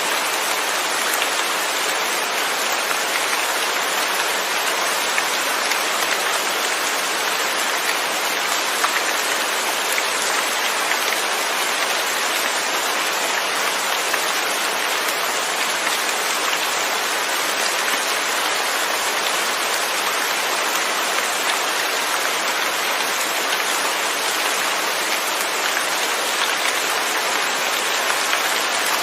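Steady rainfall, with no thunder: an even hiss of rain with fine drop ticks, unchanging throughout.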